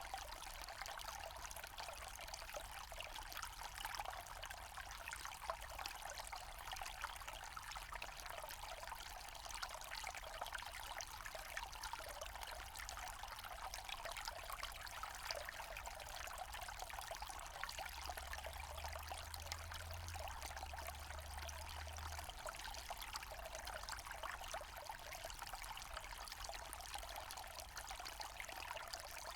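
Small forest stream trickling and splashing steadily over stones.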